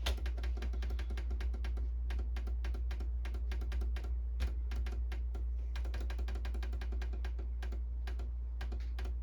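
Canon Pixma inkjet printer's mechanism working, a rapid, even clicking that runs on without a break.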